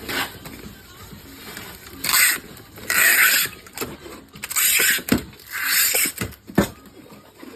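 Packing work: five short tearing or rasping bursts, each about half a second long, with a couple of sharp knocks between them.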